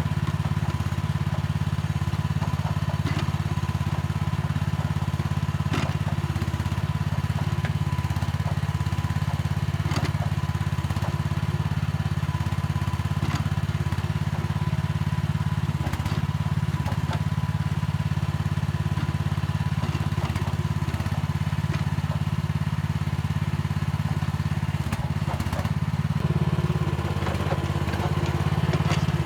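Mini excavator engine running steadily while it digs, with scattered light knocks and clatter. About three-quarters of the way through, the engine note grows fuller and a little louder as it takes more load.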